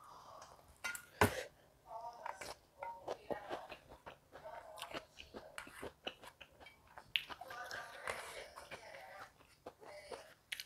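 A person chewing and eating a spicy meal of rice with sambal, faint mouth and chewing sounds with many small clicks and one sharp, loud click about a second in.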